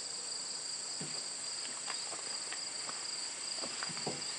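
Steady chorus of insects, a continuous high-pitched drone on two pitches, with a few faint brief sounds scattered through it.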